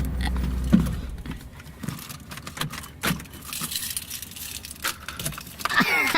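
Car keys jangling and clicking in scattered short rattles, as at the ignition of a car that won't start and whose steering wheel is locked. A low hum underneath dies away about a second and a half in.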